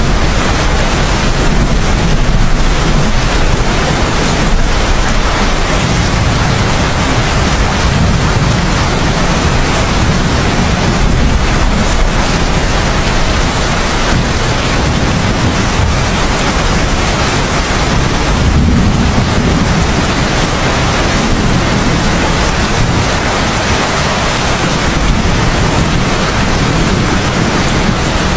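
Heavy, steady rain with a low thunder rumble underneath that swells a little now and then.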